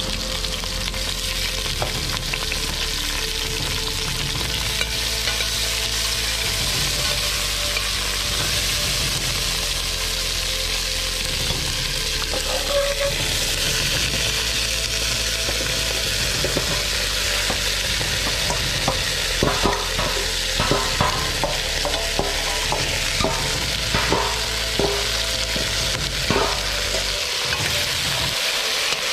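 Cut vegetables sizzling in hot coconut oil in a steel pot as they are tipped in and sautéed, a steady frying hiss. In the second half a metal spoon stirs them, with repeated clinks and scrapes against the pot.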